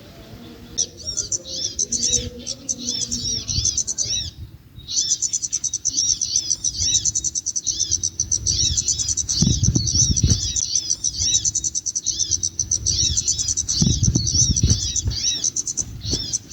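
Small songbird chirping with rapid, high-pitched repeated notes, nearly continuous after a short break around four seconds in. Low rumbling handling noise comes twice in the middle.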